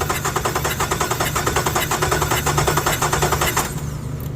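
Starter cranking the 2016 Nissan Quest's junkyard replacement 3.5-litre V6 over with the fuel and ignition off for a cylinder compression test: a fast, even chatter of compression strokes that stops about three and a half seconds in.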